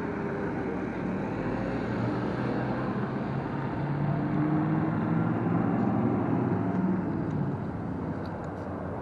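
Steady rumble of wind and road noise while riding an electric scooter, with a low hum that swells a few seconds in and eases off near the end.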